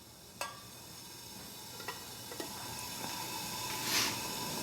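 Pot of water heating over a wood-gas pellet stove, hissing as it nears the boil, the hiss slowly growing louder. A few light clicks, and a brief louder burst of hiss near the end.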